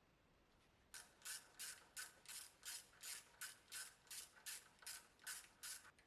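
Rhythmic back-and-forth scrubbing: about fourteen short rasping strokes, roughly three a second, starting about a second in and stopping just before the end.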